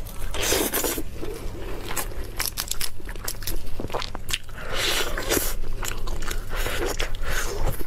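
A person eating close to the microphone: crunchy bites and chewing with many sharp clicks, the loudest crunches about half a second in, around five seconds in and near the end.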